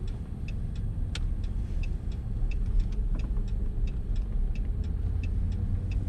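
Turn signal clicking steadily inside the truck's cab, about three clicks a second, over the low rumble of the engine and tyres while driving.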